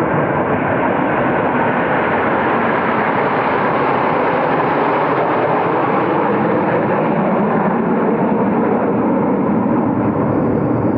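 Military aircraft flying over in a flypast: a loud, steady engine noise that swells around the middle and eases off toward the end.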